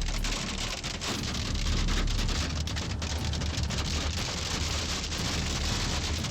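Hailstones pelting down on hard surfaces: a dense, steady downpour of many sharp ticks and clatters over a low rumble.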